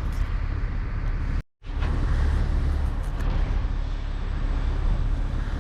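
Refrigerant gas hissing out of a bus air-conditioning line as it is opened and vented, over a steady low rumble. The sound cuts out completely for an instant about a second and a half in, then carries on.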